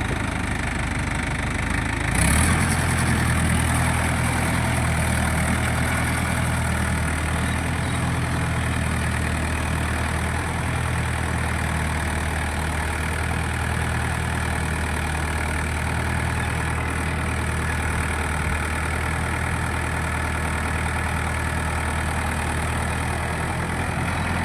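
Mahindra 585 tractor's diesel engine running steadily, with a brief rise in level about two seconds in.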